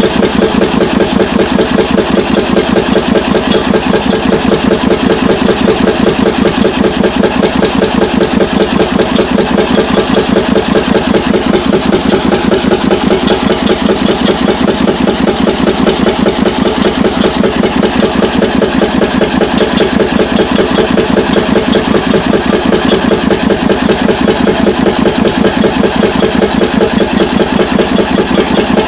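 Levahn 10-litre two-stroke diesel boat engine running steadily with an even, rapid, unchanging beat; loud.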